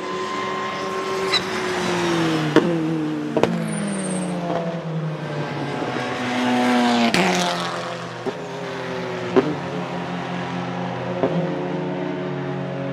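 Car engine running hard, its pitch falling and rising through gear changes, with several sharp cracks, the loudest about two and a half seconds in and around seven seconds in.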